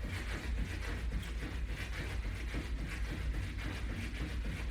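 Feet jogging in place on the floor, soft irregular footfalls over a steady low room hum.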